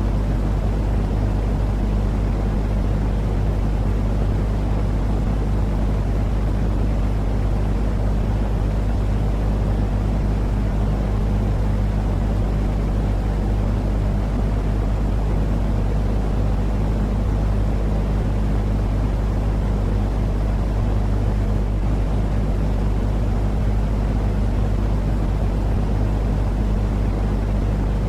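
Steady, unchanging low rumbling noise of a baby-sleep white-noise track, heaviest in the bass with a few constant low hums, much like the drone of a vehicle.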